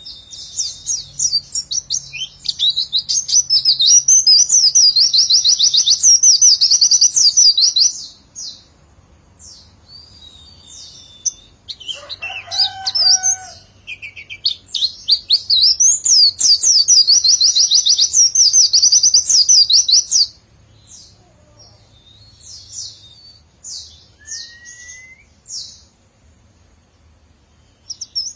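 A white-eye (pleci) singing its rapid-fire 'nembak' song: two long runs of fast, high, repeated 'witwitwit' notes, each about six seconds, with scattered softer chirps between and after them.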